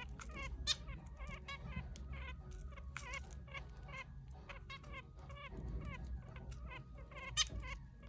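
Zebra finches giving short nasal calls in quick succession, several a second, with a couple of sharp clicks.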